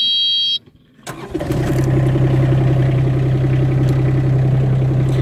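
A steady electronic beep ends about half a second in. After a short pause, the Kubota 2-ton mini excavator's diesel engine cranks and catches at about one second, then settles into a steady idle.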